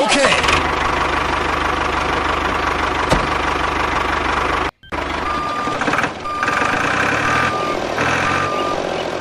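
Construction-vehicle engine running steadily, cut off briefly near the middle. After the break a reversing alarm beeps repeatedly, about once a second, over the engine.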